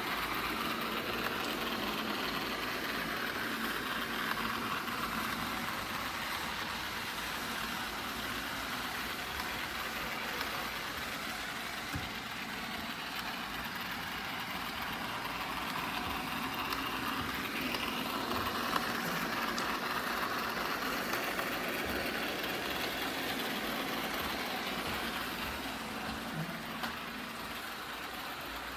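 eufy L60 robot vacuum running: a steady whir of its suction fan and brushes that swells and eases slowly as it works.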